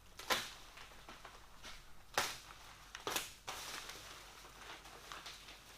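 Heavy plastic boat shrink-wrap being pulled off a machine and crumpled, with sharp crackling tears about a third of a second in, near two seconds, and again about a second later, between quieter rustling.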